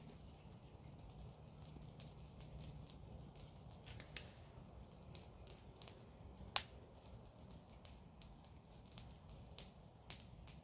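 Garden-waste fire crackling: scattered sharp pops and snaps at irregular intervals, one clearly louder pop a little past halfway and another near the end, over a faint steady low rumble.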